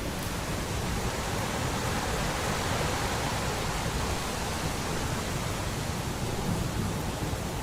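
Steady rain, an even hiss, with a low rumble underneath.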